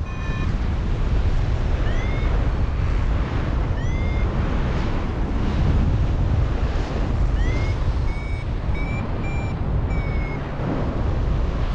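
Wind rushing over the microphone in flight, with a paragliding variometer beeping: three short rising chirps, then a quick run of steady beeps in the second half, the vario signalling climb in lift.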